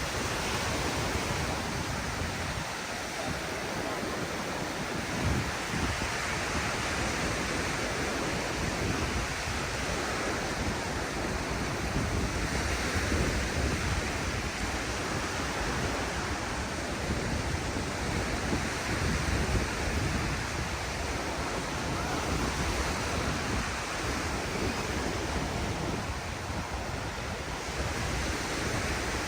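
Ocean surf breaking and washing up a sandy beach, a steady hiss that swells every few seconds as waves come in, with low wind rumble on the microphone.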